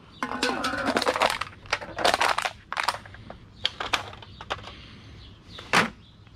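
Litter being handled with a trash picker: crinkling and rattling for the first second or so, then a series of sharp clicks and clatters, the loudest near the end.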